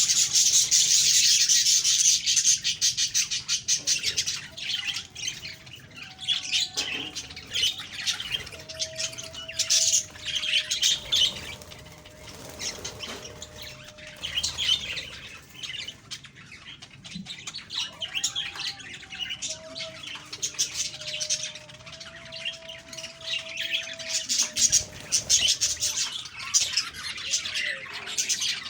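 A flock of budgerigars chattering and chirping, a busy warbling with short squawks, loudest in flurries near the start and again toward the end.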